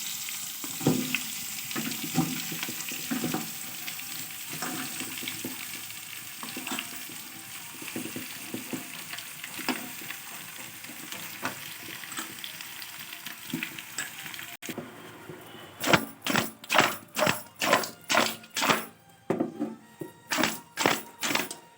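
Chicken pieces frying and sizzling in oil in a cooking pot, with a ladle knocking as they are stirred. The hiss slowly dies down. After a sudden cut about two-thirds in, the ladle scrapes through the pot in quick, even strokes, about two a second.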